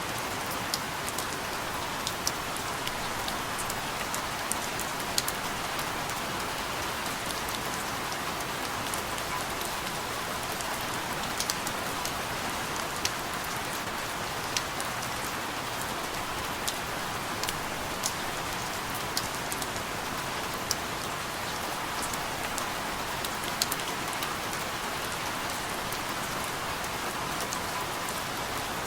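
Steady rain falling, an even hiss with scattered sharp drips of single drops striking a surface.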